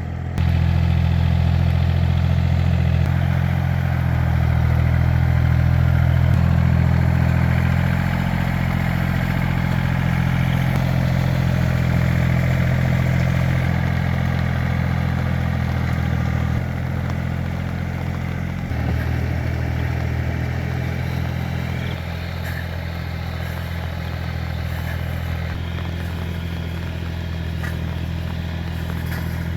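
Two-wheel walking tractor's engine running steadily under work. It gets louder about half a second in, then eases back and shifts pitch a few times in the second half.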